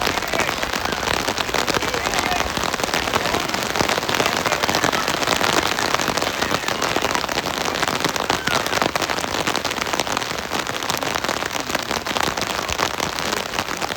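Heavy rain falling steadily, a dense spatter of many close drop hits.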